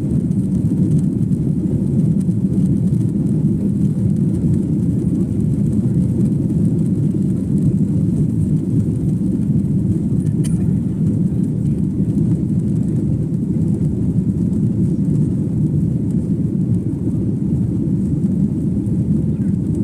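Steady low rumble of a passenger jet's engines and rushing air, heard from inside the cabin after takeoff.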